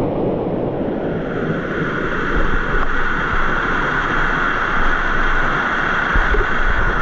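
Waterfall water rushing close by, a loud, steady roar, with low buffeting bumps on the microphone a couple of times.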